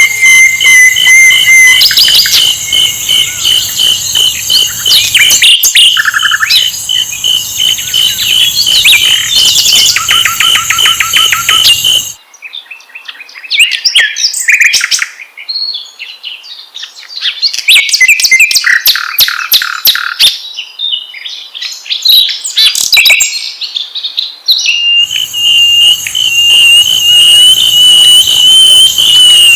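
Sikatan londo flycatcher song played loud: fast high chirps and trills over a steady high tone. About twelve seconds in it changes abruptly to separate song phrases with short pauses between them. The dense chirping over a steady tone returns near the end.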